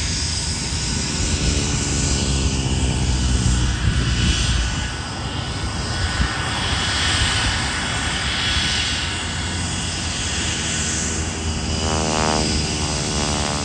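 Fixed-wing aircraft engine noise from a plane in flight, steady and loud, with sweeping tones that fall early on and rise again near the end as it passes.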